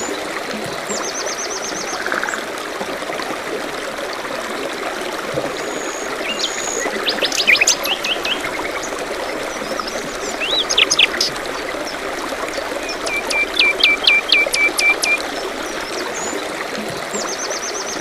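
Steady trickle of a small stream, with songbirds calling over it in several short bursts of quick, high notes. The loudest burst is a run of about eight short notes near the end.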